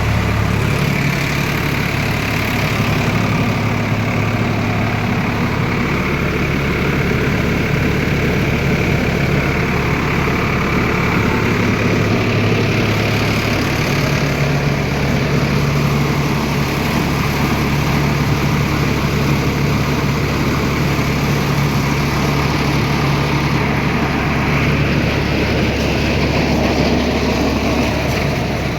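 Tractor diesel engine running steadily, with a constant mechanical noise over its low hum.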